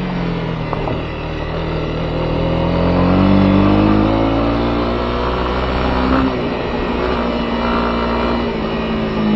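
Honda CB250R's single-cylinder engine running under way, its pitch rising for a couple of seconds, easing off, then rising again as the throttle opens and closes.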